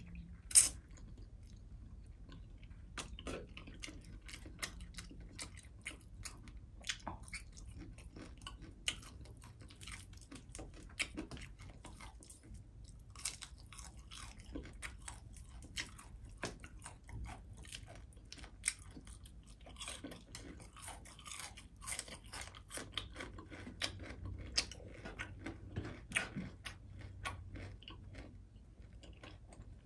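Close-up chewing and crunching of crispy fried fish (tilapia) eaten by hand, a steady run of small crisp crunches and mouth clicks. A sharper crunch stands out about half a second in.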